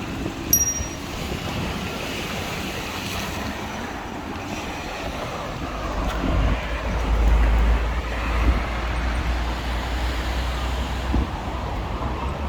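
Wind buffeting the microphone of a camera carried on a moving bicycle, over a steady rushing noise. The low rumble grows stronger about halfway through, and there is a brief high squeak near the start.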